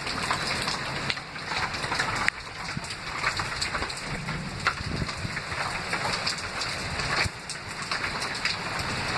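Heavy thunderstorm rain pouring steadily, with many close drops spattering sharply on a hard surface.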